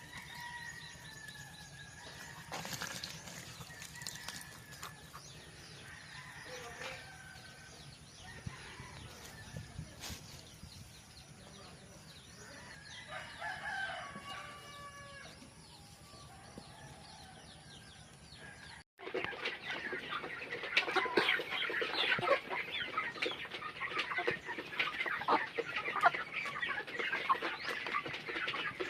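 Chickens clucking, with a rooster crowing about halfway through. After a sudden cut about two-thirds of the way in, many chickens cluck together in a louder, busier clatter.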